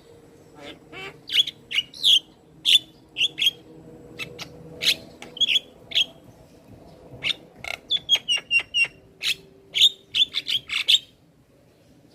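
Javan myna calling in full song: a string of sharp clicks and short whistled chirps, with a fast run of notes about eight seconds in, stopping near the end.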